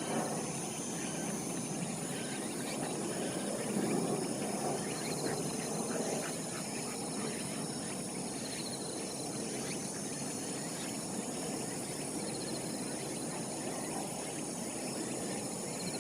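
Outdoor ambience: insects trilling steadily, with a short chirping call repeating every three to four seconds over a low, even rumble.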